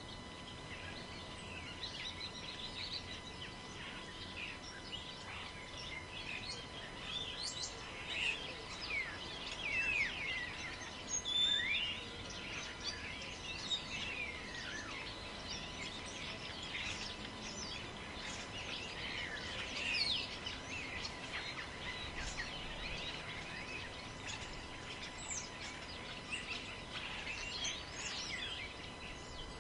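Many small birds chirping and calling in a forest, short sweeping notes overlapping throughout and busiest around the middle, over a steady low rush of wind noise.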